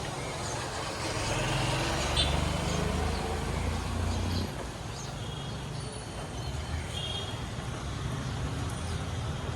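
A motor vehicle's engine rumbling by, louder from about a second in and easing off about four and a half seconds in, over a steady background hiss.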